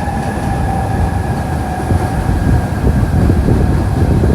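An electric high-speed train running through the station: a heavy rumble with a steady high electric whine, growing louder toward the end.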